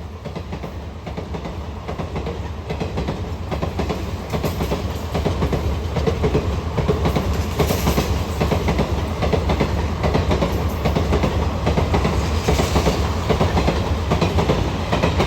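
Indian Railways passenger express hauled by a WAP-5 electric locomotive passing at speed: a steady rumble with rapid clickety-clack of coach wheels over the rails, growing louder over the first few seconds and then staying loud.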